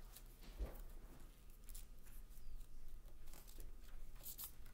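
A sheet of origami paper being folded and creased by hand: faint rustles and soft crinkles, with a few sharper crackles near the end.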